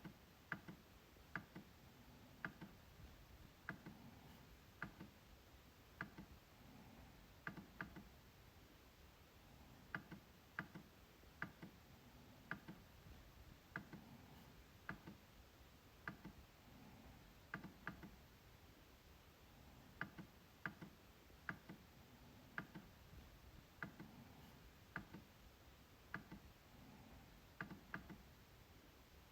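MacBook trackpad being clicked over and over at an uneven pace, about once a second, often two sharp clicks in quick succession.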